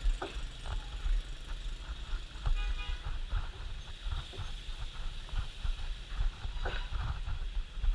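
Street traffic ambience: a steady low rumble of passing vehicles with scattered knocks, and a short vehicle horn toot about two and a half seconds in.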